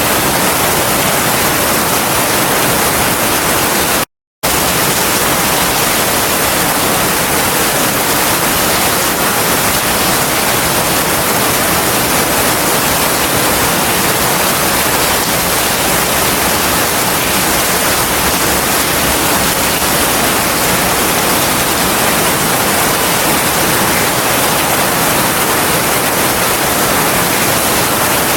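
Heavy rain falling as a steady, dense hiss, with no thunder. It cuts out completely for a split second about four seconds in.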